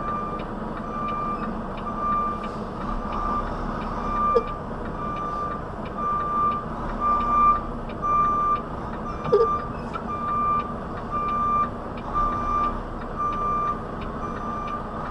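Truck backup alarm beeping steadily, about one beep a second, as the tractor-trailer reverses into a loading dock, with the diesel engine running low underneath.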